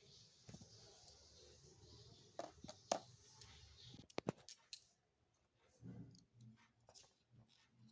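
Faint scattered clicks and light taps of tiny cookware and utensils being handled, over a soft hiss that stops about five seconds in.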